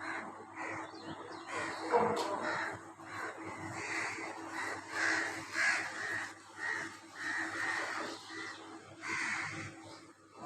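Birds giving harsh, caw-like calls, many short calls in quick succession, over a faint steady hum.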